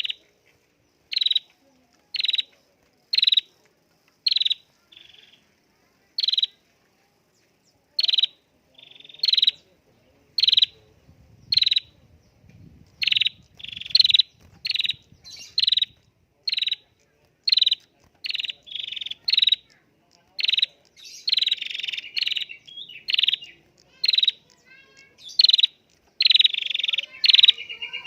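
Prenjak (prinia) calling over and over in short, sharp chirps about once a second, quickening in the second half into rapid runs of chirps mixed with longer buzzy notes.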